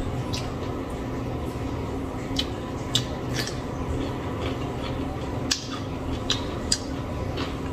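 A person chewing fried chicken wing and cucumber, with about eight sharp, crisp crunches spread irregularly over a steady low background hum.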